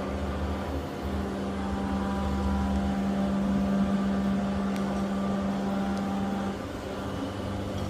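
A machine running steadily with an even, constant-pitched hum and a low rumble underneath.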